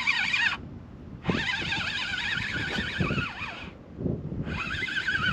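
Fishing reel's ratchet or drag screaming as a hooked fish, a smooth-hound, runs and takes line. It comes in three bursts: one ending about half a second in, one lasting about two and a half seconds, and one starting near the end.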